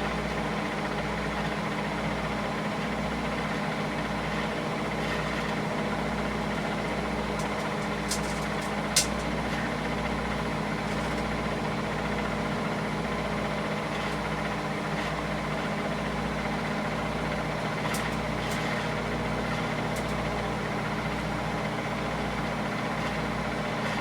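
Steady low mechanical hum with a slow throb about once a second. A few faint clicks sit on top, and one sharper click comes about nine seconds in.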